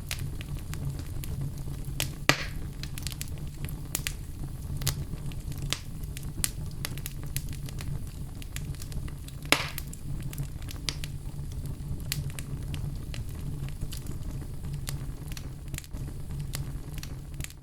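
Wood fire burning in a fireplace: a steady low rumble of flames under frequent small crackles of burning logs. Two louder pops come through, one about two seconds in and one a little past halfway, and the sound fades away near the end.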